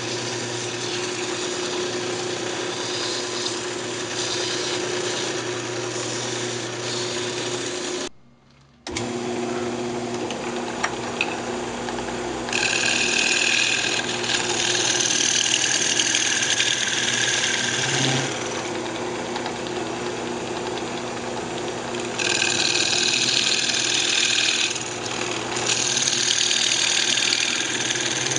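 Wood lathe running with a steady hum while the spinning maple box is worked, with louder hissing stretches from about twelve seconds on. The sound drops out for about a second around eight seconds in.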